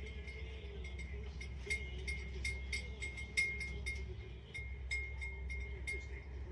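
Plastic toy pieces clicking and clinking in an irregular patter as a parrot plays with a plastic ball toy and plastic chains, over a steady low hum.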